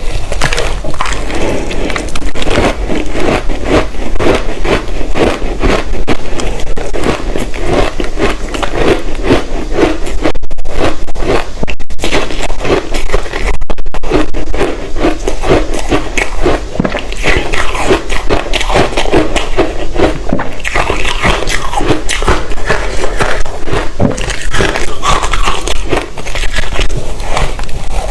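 Large chunks of reshaped ice coated in matcha powder being bitten and chewed. The crisp crunches come thick and fast, with a few brief breaks between bites.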